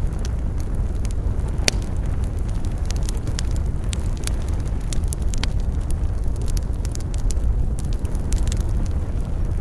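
Wood campfire crackling: frequent sharp snaps and pops over a steady low rumble, with one louder pop a little under two seconds in.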